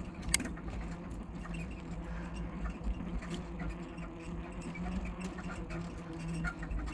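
Squeaky bicycle being pedalled uphill: short squeaks from the drivetrain over a steady rumble of riding noise, with one sharp click about a third of a second in. The squeak is from the bike having been left out in the rain.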